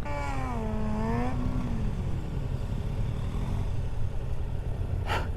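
Yamaha MT-07 parallel-twin motorcycle engine running steadily while riding, with wind noise. Over it during the first two seconds is a drawn-out wavering pitched sound that falls and then rises.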